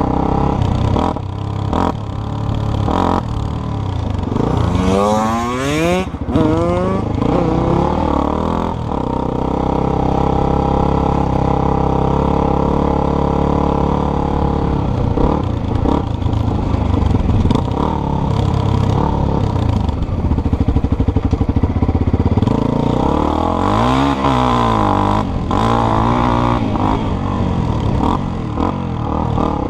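Dirt bike engine running while being ridden, revving up in several quick rising sweeps about five seconds in, then holding steady. Near the end the revs drop and climb again.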